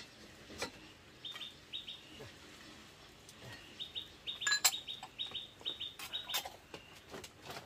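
A small bird chirping in quick runs of short, falling notes, with sharp clinks of utensils against a pot and bowls in between. The loudest clink comes about four and a half seconds in.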